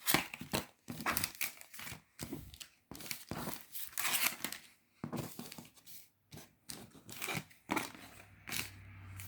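Plastic wrappers of cardboard tree-shaped car air fresheners being torn open and crinkled: a run of irregular ripping and rustling bursts.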